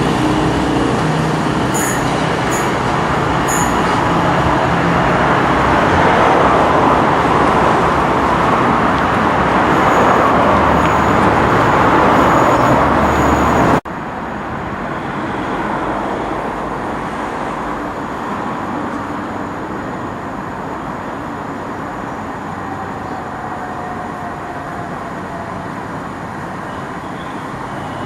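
A passing train makes a loud, steady rush of wheel and traction noise. About halfway through the sound cuts off abruptly and is replaced by quieter, steady train noise.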